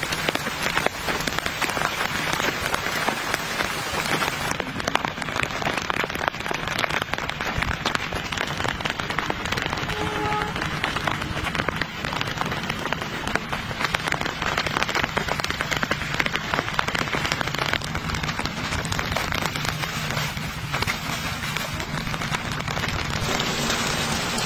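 Steady rain falling on the tarp and tent fabric overhead: a dense, even hiss of many small drops hitting.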